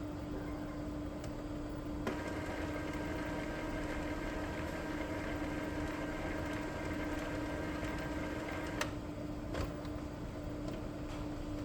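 Epson L3256 inkjet printer working through its power-cleaning cycle: a steady low hum, with a higher motor whine that starts about two seconds in and stops with a click about three-quarters of the way through, followed by a few light clicks of the mechanism.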